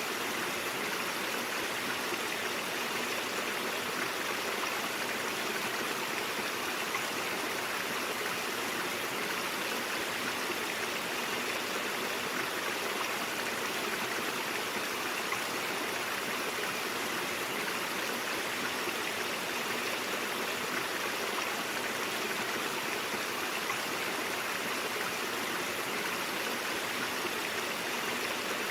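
Brook flowing steadily, an even, unbroken rush of running water.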